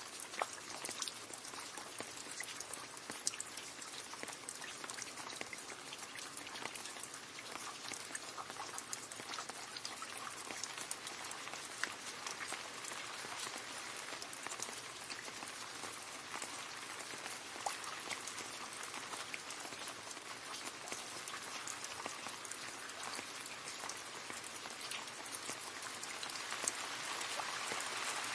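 Steady rain falling into a puddle, a constant patter with many sharp individual drop splashes, growing slightly heavier near the end.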